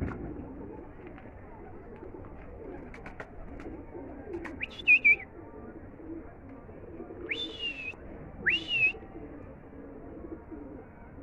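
Domestic pigeons cooing with a steady, low murmur. A few loud, sharp, high whistled calls stand out: two quick ones near the middle and two more a little later.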